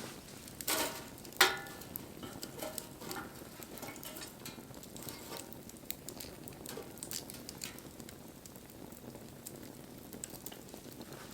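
Wood campfire crackling, with irregular small pops and ticks throughout. About a second in come two louder knocks; the second is the loudest and rings briefly.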